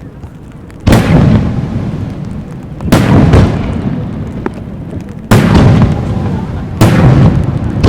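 Aerial firework shells bursting: four loud booms a couple of seconds apart, each followed by a long rolling rumble of echo.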